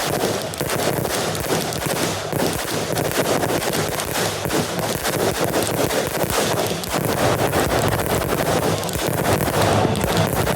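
Fireworks crackling and popping in a dense, unbroken rapid stream.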